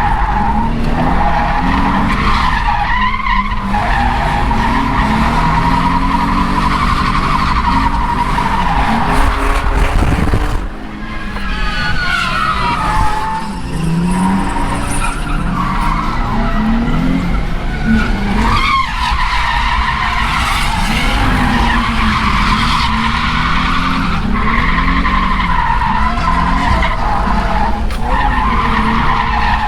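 Nissan 350Z's 3.5-litre V6 revving hard while drifting, the rear tyres squealing continuously as they spin. The revs dip briefly twice around the middle, then climb again.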